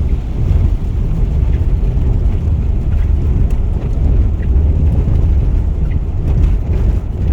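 Rainstorm ambience dominated by a steady, deep rumble, with a few faint scattered ticks of falling drops.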